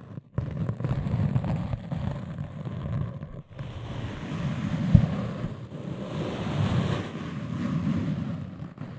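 A continuous rushing, rustling noise close to the microphone, with a brief break about three and a half seconds in and a single sharp knock about five seconds in.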